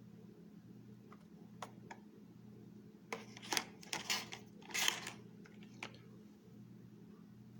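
Light plastic clicks, then a couple of seconds of louder clicking and crinkling as carded die-cast toy cars in plastic blister packs are handled, over a low steady hum.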